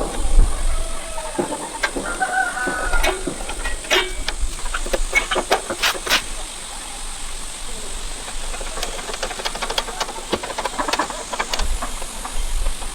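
Scattered sharp knocks and clinks, like metal tools being handled, over a steady high hiss, with a short pitched call about two seconds in.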